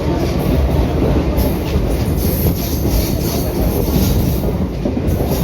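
Indian Railways ICF train running along the track: a steady, loud rumble of wheels and coach, with a faint high hiss that comes and goes.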